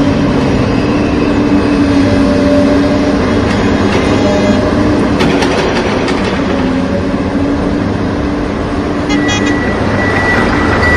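Truck engine sound running loudly and steadily, with a pitched tone that sounds on and off over it. A high steady tone joins about nine seconds in.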